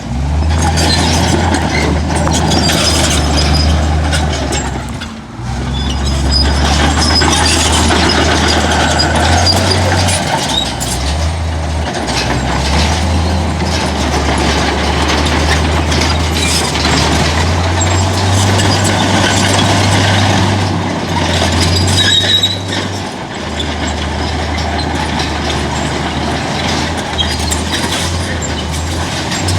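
Heavy diesel earthmoving machinery running under load, with the engine note shifting now and then and dipping briefly about five seconds in, and scattered clanks and high squeals of metal over it.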